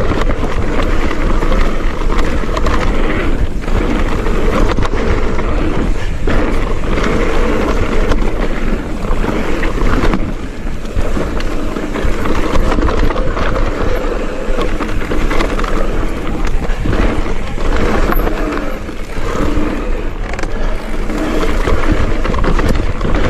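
Mountain bike ridden along a rough trail: a continuous rumble of tyres over the ground with frequent knocks and rattles from the bike, and wind on the microphone.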